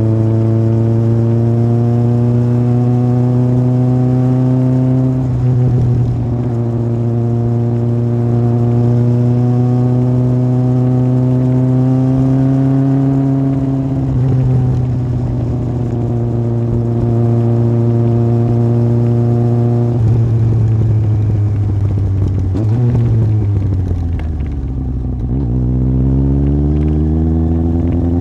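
Yamaha Fazer 1000's inline-four engine through an aftermarket MIVV exhaust, under way. The revs climb slowly in each gear, with three gear changes, then fall away about 23 seconds in as the bike slows, and pick up again near the end.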